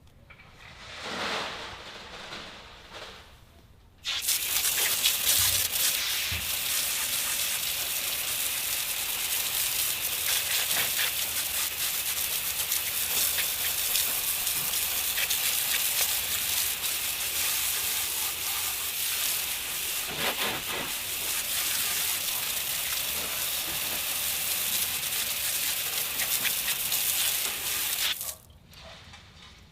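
A jet of water spraying onto a car wheel to rinse off brake dust and road grime: a steady hiss that starts suddenly about four seconds in and cuts off shortly before the end.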